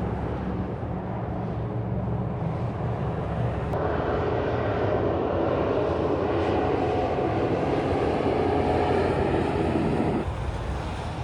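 Steady rumble of a car driving on the road, heard from inside the car, with a louder drone joining about four seconds in that cuts off suddenly near the end.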